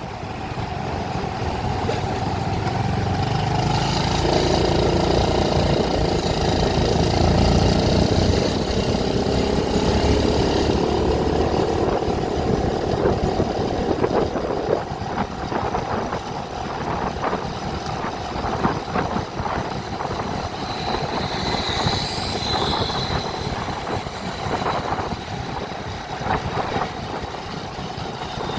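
A vehicle travelling along a road: engine running and road noise, swelling for several seconds and then carrying on with a scatter of rattles and clicks. A brief high tone sounds about two-thirds of the way through.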